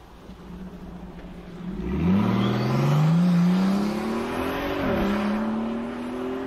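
Brabus-tuned Mercedes G-Class engine pulling away under acceleration: a low engine note for the first second and a half, then a steadily rising engine pitch, a quick drop at an upshift about five seconds in, and a climb again.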